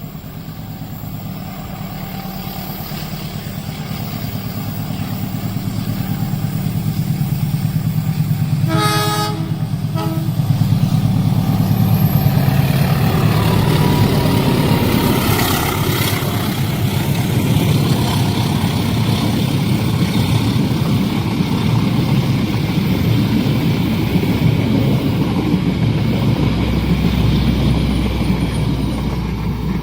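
A train approaching and passing at speed: its rumble grows steadily louder, the horn sounds about nine seconds in with a short second blast a second later, then the wheels and cars rattle past steadily.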